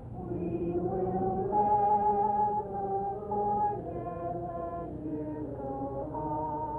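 Choir singing slow, held chords.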